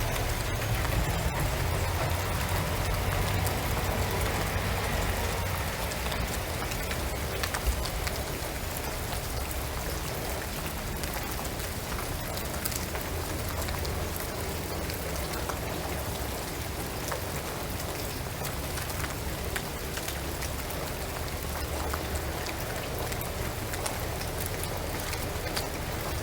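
Steady rain falling on a shingled roof and pine trees, with single drips ticking sharply here and there over an even patter. A low steady rumble runs underneath.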